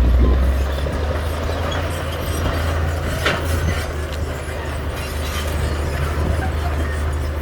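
A bulldozer's heavy diesel engine running steadily under load, with one short clank about three seconds in.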